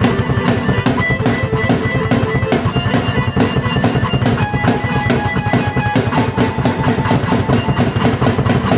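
Drum kit and keyboard played together by one performer: a steady driving beat of about four hits a second under held keyboard notes that change every second or two.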